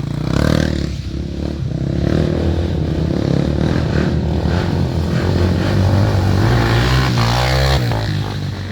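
Off-road dirt bike engines running and revving, the pitch rising and falling with the throttle, with some clattering.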